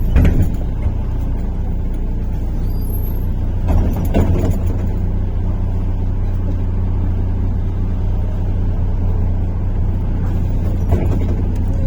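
Inside a MAZ-103.485 city bus on the move: the engine and road noise make a steady low drone. Short rattling knocks come near the start, about four seconds in, and again near the end.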